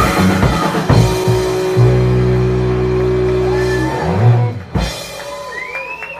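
Live rock band with guitar, bass and drums ending a song on a held chord, closed by a final hit about four and a half seconds in, after which the level drops away.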